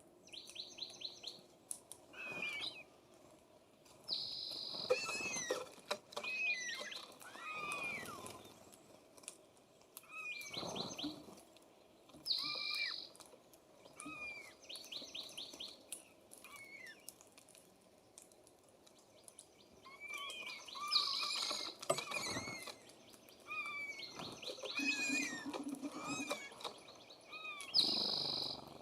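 Wild songbirds singing and calling. A phrase of rapid, high trilled notes recurs every several seconds, with short down-slurred chirps in between.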